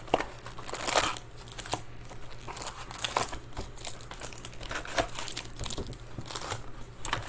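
Foil trading-card pack wrappers crinkling and tearing as packs are opened, a run of irregular crackles.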